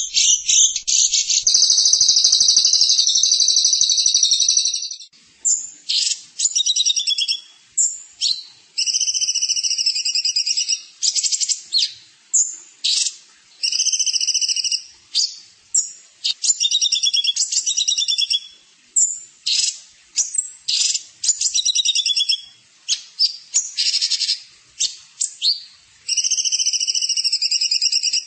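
Songbird singing from a bird-song 'master' recording: a long, high trill in the first few seconds, then short whistled and chattering phrases roughly once a second.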